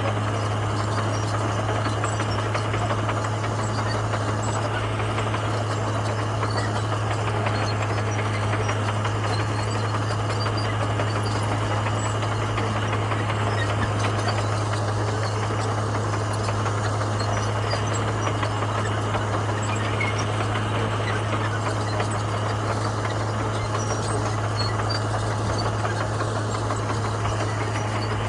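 Komatsu bulldozer's diesel engine running steadily, a constant low drone that holds its pitch and level.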